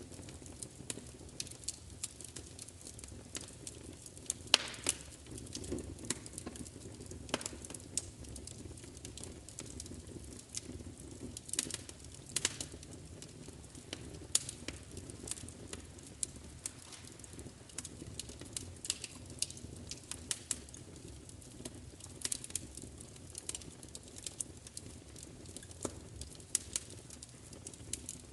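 Wood fire crackling: irregular snaps and pops, a few of them louder, over a low steady rumble of the burning.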